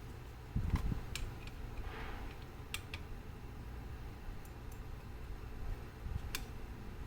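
Irregular small clicks and taps of metal clock parts being handled during work on a mechanical clock movement, with a dull low thump about half a second in.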